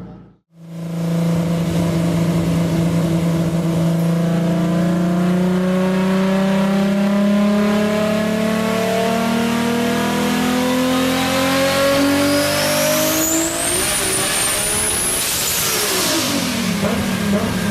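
BMW E46 engine and exhaust under load, the note climbing slowly and steadily for about twelve seconds. Then a high tyre squeal rises and falls while the engine note wavers up and down with the throttle, as in a drift.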